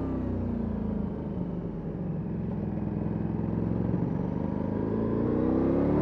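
Ducati Multistrada V4S's V4 engine through an Akrapovic exhaust, revs falling off the throttle at the start and running low through the middle, then rising again near the end as the throttle opens.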